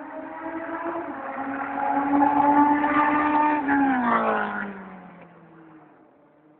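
Yamaha Seca 550's inline-four engine running loud through an exhaust with the silencer removed as the motorcycle rides past: it builds up, drops in pitch around four seconds in as it passes, then fades away.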